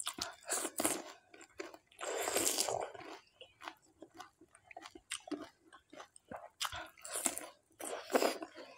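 Close-up chewing of panipuri: crisp fried puri shells filled with spiced water crunching between the teeth in irregular bites, with a longer burst of crunching about two seconds in.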